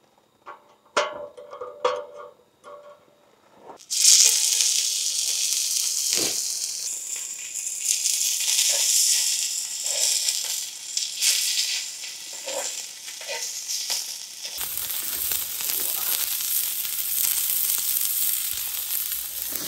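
A few light knocks, then about four seconds in, meat starts sizzling in a hot pan: a steady loud hiss with occasional crackles.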